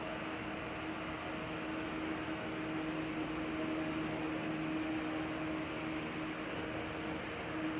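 Steady mechanical hum with an even hiss and a constant low tone, unchanging throughout.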